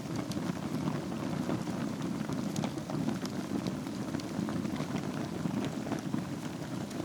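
Wood fire burning in a fireplace over a bed of embers: a steady low rush with many small crackles and pops scattered through it.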